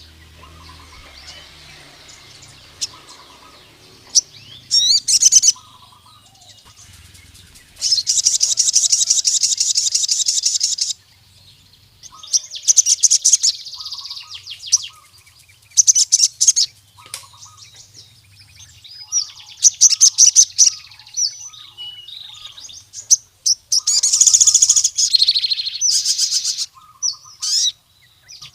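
Male crimson sunbird (sogon) singing in loud, high-pitched bursts of rapid trills and chattering notes, the longest a buzzy trill of about three seconds, with short soft chirps in between. This is a male's call to a rival male.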